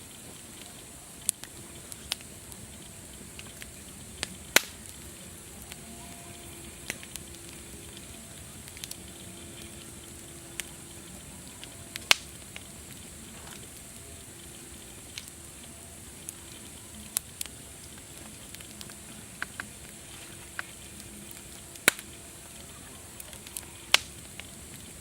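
Campfire crackling: a steady hiss with sharp pops and snaps at irregular moments, every second or two, a few of them much louder than the rest.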